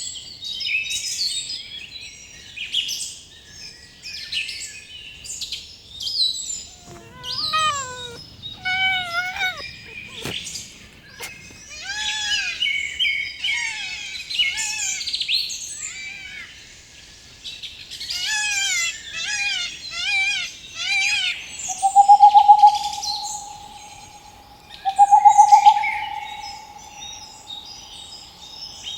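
Birds chirping and calling: many short, quick chirps and sliding song notes, joined near the end by a louder call held at one steady pitch, given twice.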